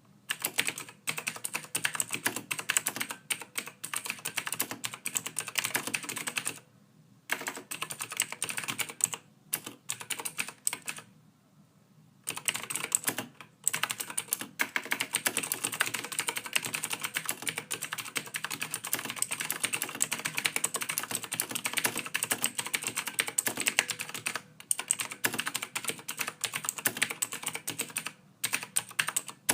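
Fast typing on a computer keyboard, a dense run of soft key clicks that stops for short pauses a few times.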